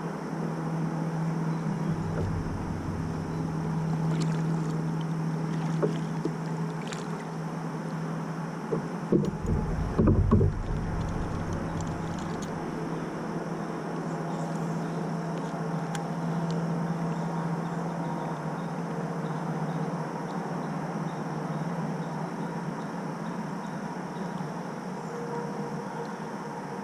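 Fishing kayak on the water: a steady low hum runs throughout, and a few heavy knocks come about nine to ten seconds in.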